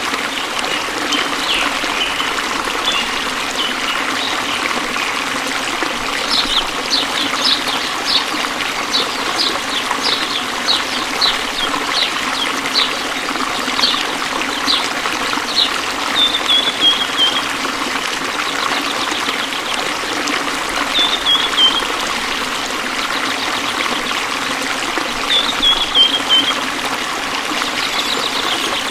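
Waterfall water pouring and splashing in a steady rush. Over it, from about a fifth of the way in, a bird repeats short high calls about twice a second, then gives three short falling trills spaced several seconds apart.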